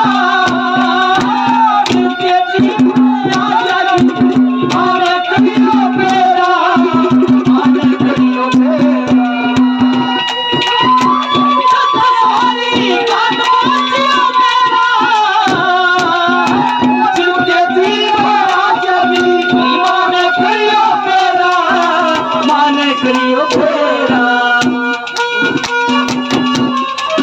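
Instrumental interlude of Haryanvi ragni folk music: a high, fast-moving harmonium melody over a quick hand-drum rhythm, with a low note sounded again and again underneath.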